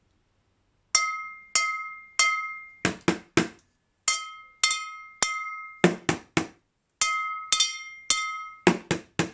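A rhythm pattern tapped on kitchenware: three ringing metal strikes, then three quick, duller knocks, played three times over.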